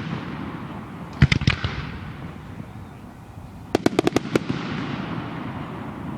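Fireworks going off, with a cluster of three or four sharp bangs about a second in, then a quick string of about seven cracks near the middle.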